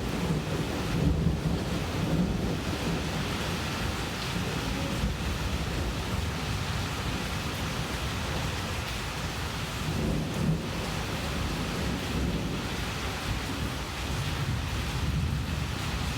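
Steady rain falling during a thunderstorm, with a low rumble of thunder underneath that swells slightly a couple of times.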